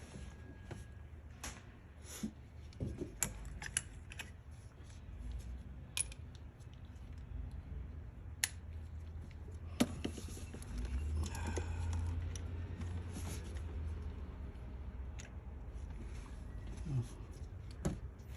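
Metal hand tools being handled: a socket, extension and wrench clink and tap in scattered sharp clicks as a long extension is fitted to reach a spark plug, with a low rumble partway through.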